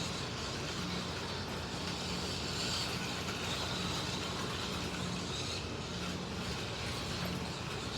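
Slot cars (MR Slotcar Cunningham Corvettes and a Scalextric Mercedes 300 SLR) lapping a track. Their small electric motors whine, rising and falling as they speed up and slow down, over a steady rumble of the cars running on the track.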